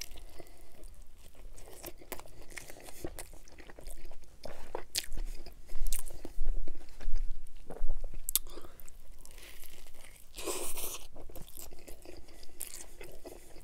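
Close-miked chewing of crunchy food: crisp crunches and wet mouth clicks, loudest in the middle, with a brief breathy hiss about ten and a half seconds in.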